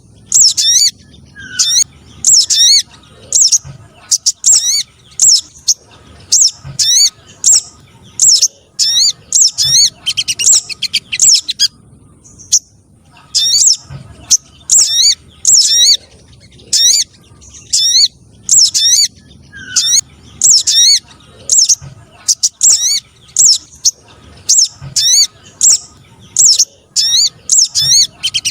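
Bird-lure playback of sunbird-family calls, sold as a lure for the streaked spiderhunter ('sogok ontong trotol'): loud, sharp, high chirps repeated about twice a second, with a short pause about twelve seconds in.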